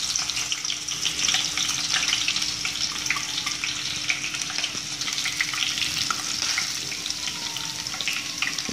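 Chopped garlic and whole dried red chillies sizzling in hot oil in a kadhai for a tadka (tempering): a steady hiss dense with small crackling pops.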